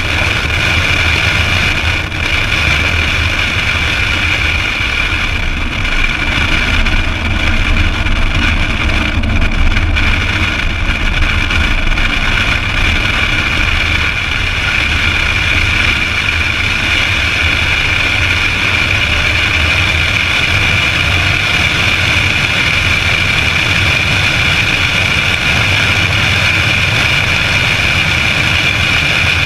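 2008 Ford Mustang Bullitt's V8 engine and exhaust running hard at speed on a race track, mixed with the rush of wind over the outside-mounted camera's microphone. The level stays high and fairly steady throughout.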